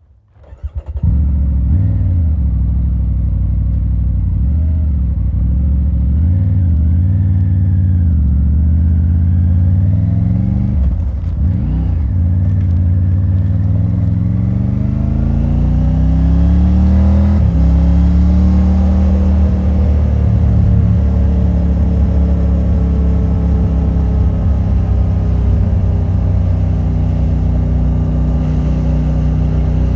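Triumph Tiger 900 Rally Pro's three-cylinder engine through its stock exhaust, starting up within the first second and then running. The pitch wavers, climbs steadily for a few seconds, drops suddenly about seventeen seconds in, then slowly sinks.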